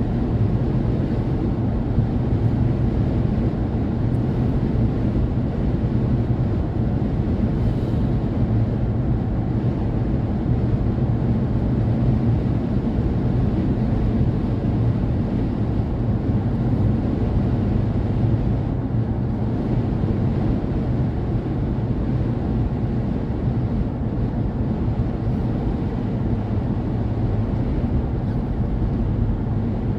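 A car driving on a highway: a steady low rumble of engine and tyre noise with wind noise over it.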